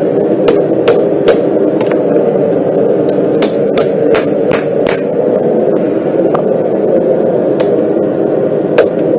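A hammer striking steel in forging a knife blade, in uneven runs of sharp blows with a pause in the middle, over a steady loud drone.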